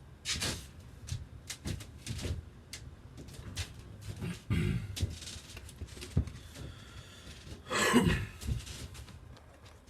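Handling noise: scattered knocks and clicks as the chainsaw and phone are moved about, with a short, louder sound falling in pitch about eight seconds in.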